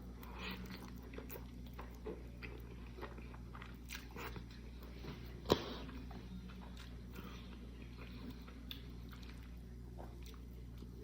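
Close-up chewing and biting of a mouthful of pasta with sardines topped with shoestring potato sticks, with small wet mouth clicks and smacks. There is a sharp click about five and a half seconds in, over a steady low hum.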